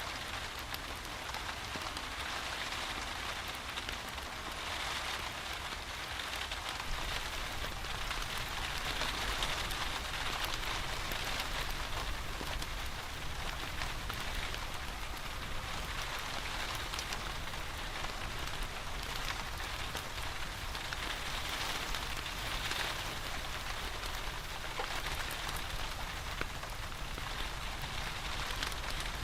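Steady rain falling, with a wood fire in a fireplace crackling in scattered sharp ticks.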